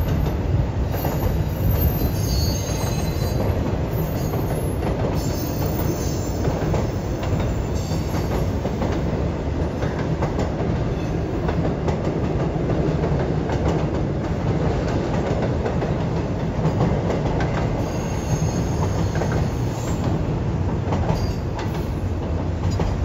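Double-stack intermodal container train rolling across a steel truss bridge: a steady rumble of wheels on the rails, with brief high-pitched wheel squeals now and then.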